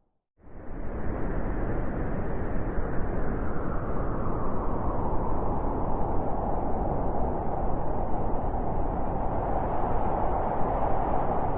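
Blizzard wind howling steadily, a dense rush of wind noise with a brighter whistling band through the middle. It fades in from a brief silence about half a second in.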